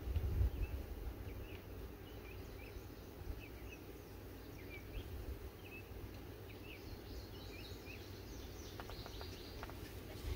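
Small birds chirping repeatedly in the background over a low rumble of wind on the microphone, with a few light clicks near the end.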